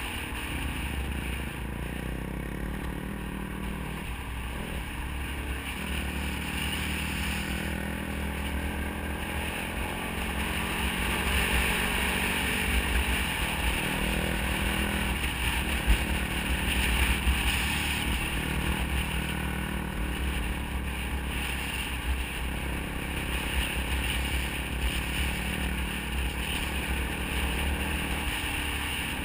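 Dirt bike engine running at a fairly steady road pace, its pitch stepping up and down a little as the throttle changes, with a low rumble from wind and riding on the gravel road. It grows louder for several seconds in the middle, with a few short knocks.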